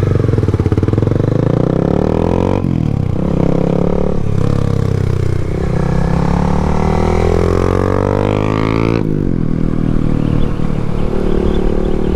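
Yamaha MT-07's parallel-twin engine pulling hard under acceleration, its pitch climbing. It drops off sharply twice, about two and a half seconds in and again about nine seconds in, as the rider shifts up.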